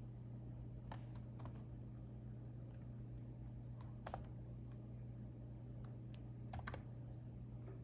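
Typing on a laptop keyboard: scattered keystrokes in small groups with pauses between, the last quick group near the end, over a steady low hum.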